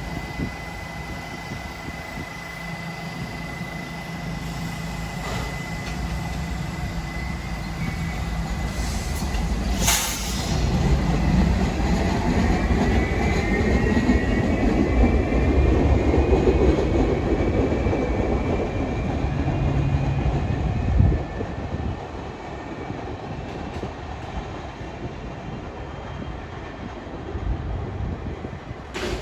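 A New York City subway train running through the station, its rumble building to the loudest point about two-thirds of the way in and then dropping off suddenly, with a sharp clack partway through.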